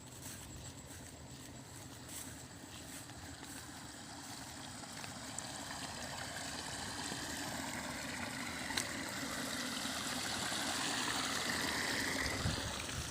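Running, trickling water, growing steadily louder.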